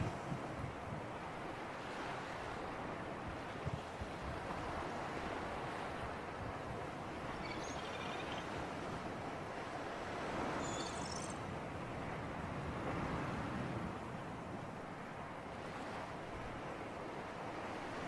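Sea breeze and waves washing on the shore: a steady rushing wash that swells gently now and then.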